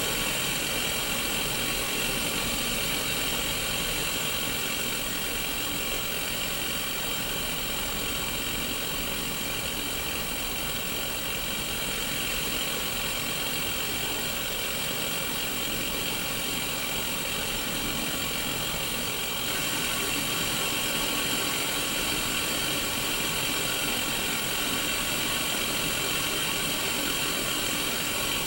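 Steady hiss of static from a Sony Mega Watchman black-and-white mini CRT TV tuned to no station. The hiss is brightest in its upper-middle range and changes slightly in tone about two-thirds of the way through.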